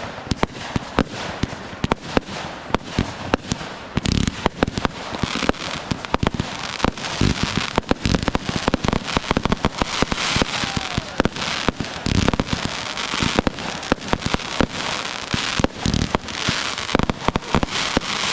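Fireworks going off in quick succession: a dense string of sharp bangs and pops, thickening into steady crackling from about four seconds in.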